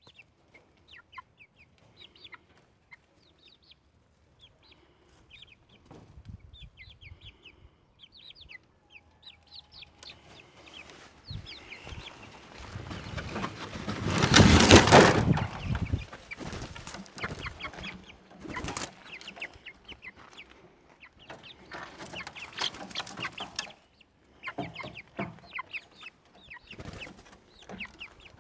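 Chickens clucking and chirping in short high calls, with a loud rustling burst about halfway through.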